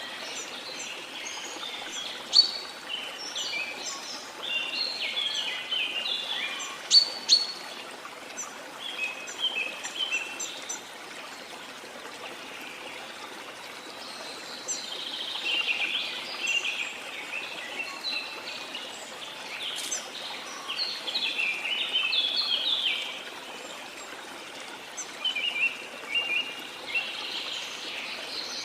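Steady rush of a flowing stream, with many small birds chirping and calling over it in bursts of quick high notes that thin out for a few seconds near the middle.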